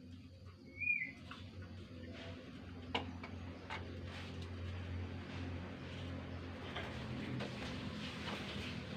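A single short whistled call from a kaso-kaso bird about a second in, followed by a few faint clicks over a steady low hum.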